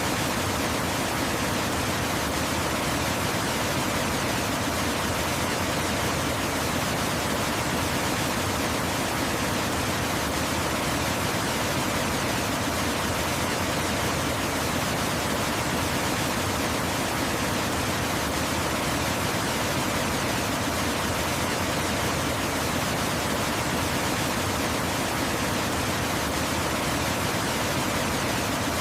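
Waterfall: a steady, even rush of falling water with no changes or separate events.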